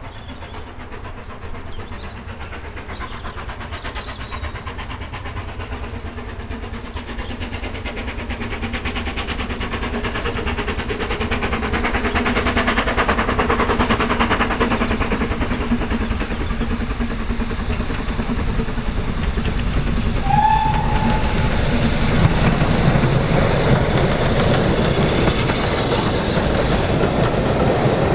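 Steam-hauled train approaching, growing steadily louder, its wheels clattering over the rail joints, with a hiss building near the end.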